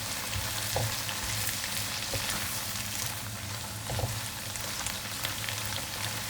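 Shrimp and vegetables in water sizzling steadily in a pan over high heat, with a few faint light clicks.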